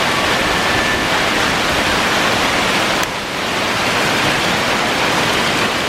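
Heavy rain mixed with hail pouring down in a dense, steady hiss, dipping briefly about halfway through.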